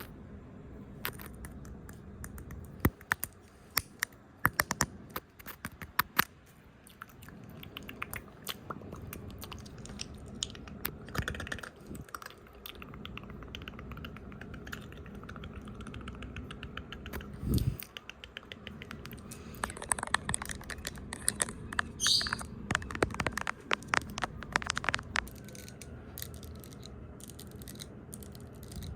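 Fast, irregular fingertip tapping and brushing right at the microphone, in clusters of sharp clicks with a few denser scratchy passes, and one low thump about two-thirds of the way through.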